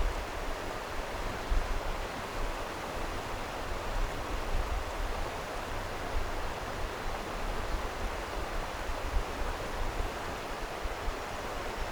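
Stream water flowing steadily, a continuous rushing hiss, with an uneven low rumble underneath.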